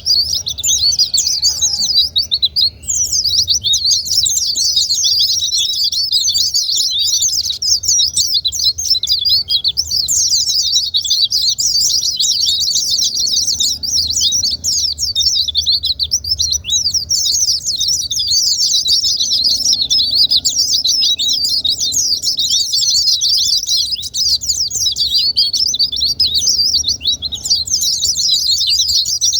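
Pleci (white-eye) singing a fast, nearly unbroken stream of high twittering chirps, with only a few short pauses. This is a lure recording played to prompt caged white-eyes that are reluctant to sing.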